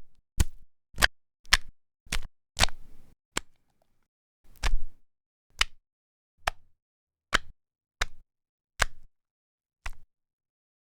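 A series of single sharp clicks or knocks, about two a second at first, then spreading out to roughly one a second, with a couple of slightly longer ones in the middle.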